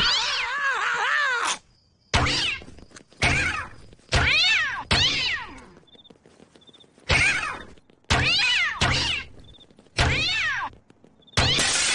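Cartoon cats yowling one after another as they are fired from a cat launcher, about eight separate screeches, each starting suddenly with a thunk.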